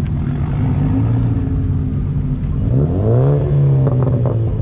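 Car engine running, with one rev that rises in pitch about three seconds in and then eases off.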